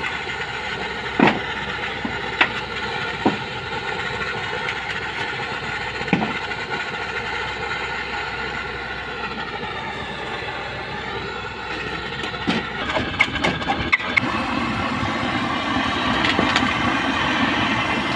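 An engine running steadily, with a few sharp knocks or clacks over it, several in quick succession about two-thirds of the way in.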